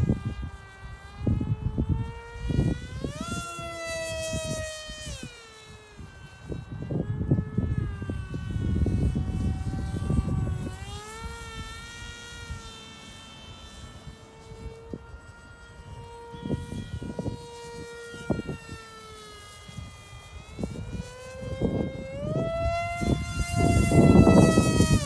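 ParkZone Stryker RC plane's electric motor and propeller whining in flight, its pitch repeatedly rising and falling as it passes and changes throttle. Gusty wind buffets the microphone, loudest near the end.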